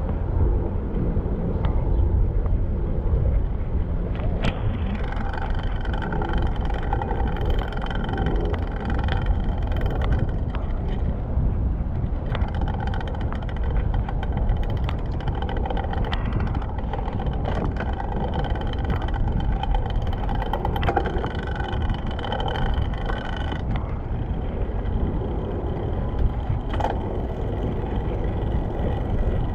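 Wind rumble and rolling noise while riding a bicycle, with a steady whine that sets in about four seconds in and stops about four-fifths of the way through, and a few sharp clicks.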